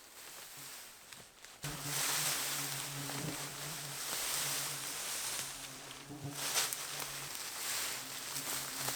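Dense rustling of bracken fronds being pushed through or cleared, starting suddenly about two seconds in, with a fly buzzing close by as a low steady hum that drops out briefly near the end.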